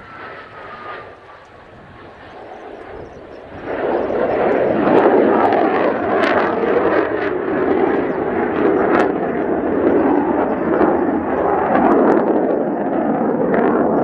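Mitsubishi F-2A fighter's jet engine running on a low approach. The sound is fainter for the first few seconds, jumps suddenly to a loud rough roar a little under four seconds in, and stays loud, with scattered crackles through the roar.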